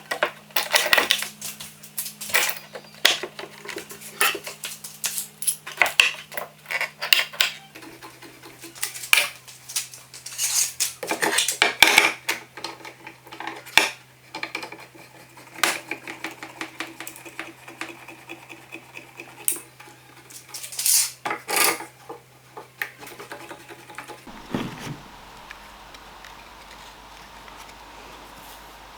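Irregular metallic clinking and clattering of hand tools and nails being handled. It stops about three-quarters of the way through, leaving only a faint steady hum.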